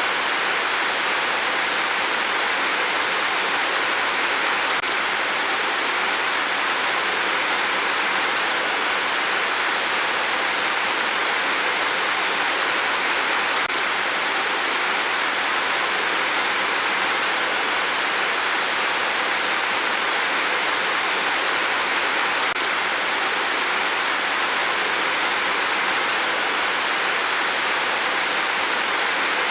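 Steady heavy rain: a dense, even hiss that holds constant with no gusts, drips or breaks.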